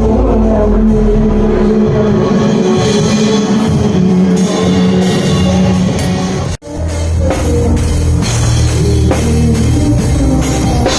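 Band music with a drum kit, bass and guitar. The sound drops out for an instant about six and a half seconds in, then the music carries on.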